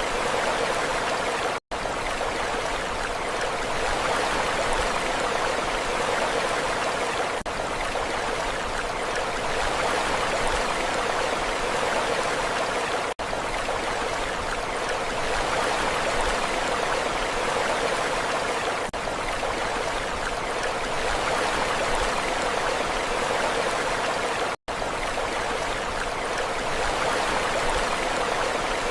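Steady rushing water with no rise and fall of waves, dropping out for an instant twice, about a second and a half in and again late on.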